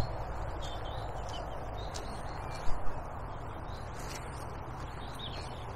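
Small birds chirping now and then over a steady low outdoor rumble, with two quick dull knocks just under three seconds in.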